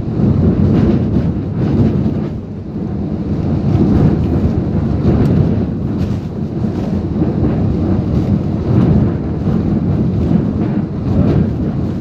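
Typhoon wind and rain: a heavy, low rumble of gusting wind hitting the microphone, swelling and easing every couple of seconds.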